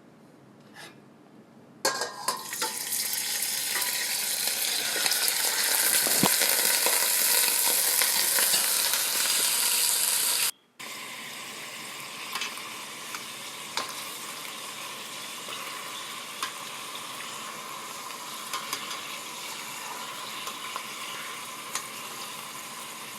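Cut chicken pieces frying in hot oil in a pan, sizzling loudly from about two seconds in. The sizzle cuts off abruptly around ten and a half seconds in, then carries on quieter and steadier, with a few light clicks.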